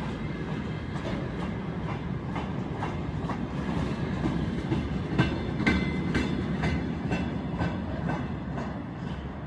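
Long, heavy freight train's wagons rolling past, their wheels clacking over the rail joints in a steady stream of clicks over a low rumble. The clacking is busiest about halfway through and eases off slightly near the end.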